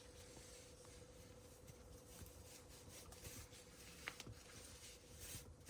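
Near silence with faint fabric rustling as socks are pulled on, a small click about four seconds in, over a faint steady hum.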